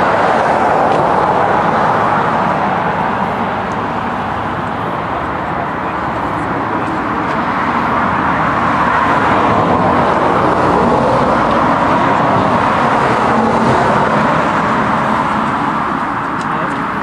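Steady road traffic noise that eases a little and then swells again in the second half.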